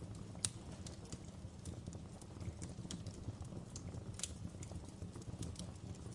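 Fire in a fireplace crackling: a steady low rumble of burning under scattered sharp pops and snaps, with two louder pops about half a second in and about four seconds in.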